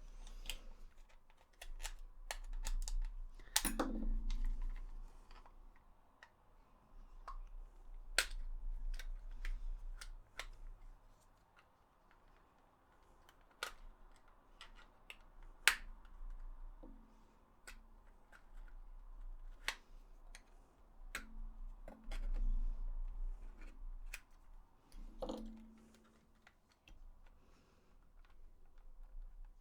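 Plastic clicks and snaps of a PS4 DualShock 4 controller shell being pried apart by hand as its clips work loose, irregular sharp clicks with pauses between them.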